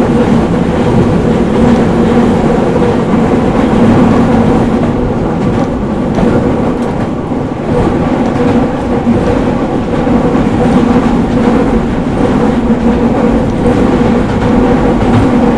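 Meitetsu 4000 series electric train running at speed, heard from inside the passenger car: a steady rumble of wheels on rail with a constant hum running through it.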